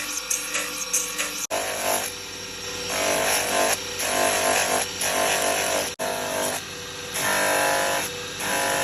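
A small electric power tool buzzing steadily as it works animal horn into combs, in short edited clips that cut about a second and a half in and again about six seconds in, with background music.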